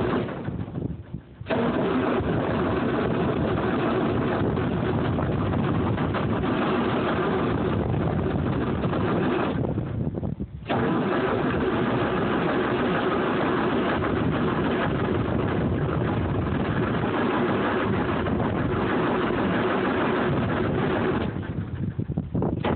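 Starter cranking the cold M35A2 deuce-and-a-half's multifuel diesel engine, in long runs broken by short pauses about 1 and 10 seconds in; it cranks hard and does not catch. It is a hard cold start: the tank holds mostly used motor oil, and no ether, block heater or flame heater is used.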